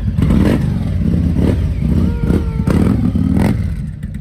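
A motorcycle engine running at idle, a steady low throb, with several brief sharp noises over it and a short steady tone a little after two seconds in.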